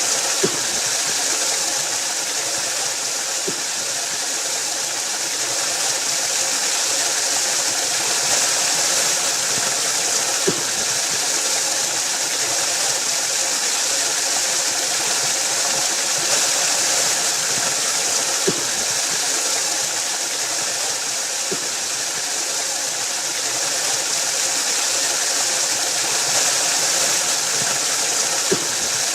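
Waterfall: a steady rush of falling water, with a few brief sharp clicks standing out every several seconds.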